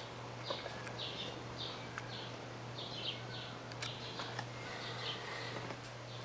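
Small birds chirping: short high notes in quick clusters, several a second, over a steady low hum, with a few faint clicks.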